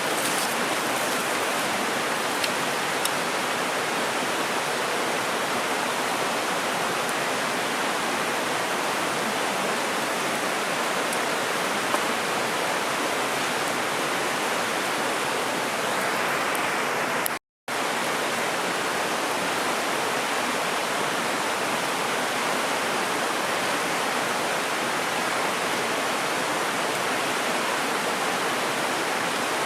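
The Doshi River, a mountain stream, rushing steadily beside the campsite, with a few faint ticks in the first few seconds. The sound cuts out for an instant about two-thirds of the way in.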